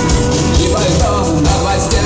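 Live rock band playing, with drums keeping a steady beat under bass and electric guitar.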